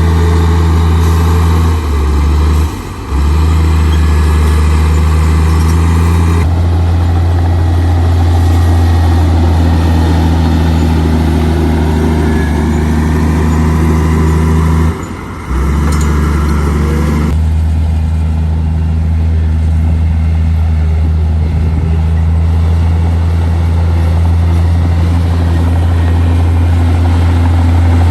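Heavy diesel earthmoving machinery engine running steadily with a deep, loud hum. It drops out briefly twice.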